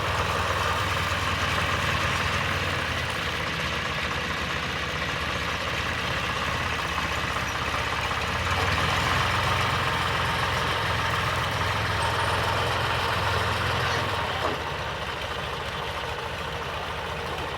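A 1988 50-hp John Deere diesel tractor engine running steadily while working the loader against the tree. It runs a little harder through the middle and eases off about fourteen seconds in.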